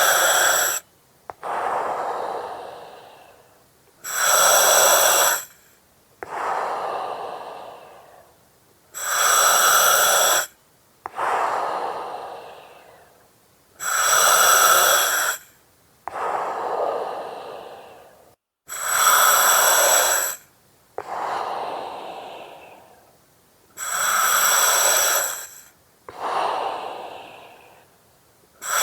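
Breathing through an oxygen mask, about one breath every five seconds. Each breath is a loud hiss with a whistling edge lasting about a second and a half, followed by a softer breath that fades away.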